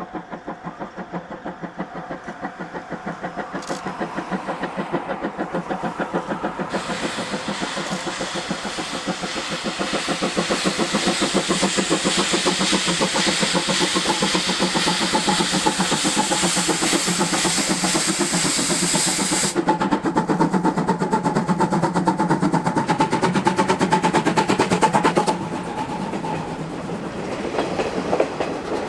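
C12 66 steam tank locomotive pulling away with its train, its exhaust chuffing in an even beat that quickens as it gathers speed.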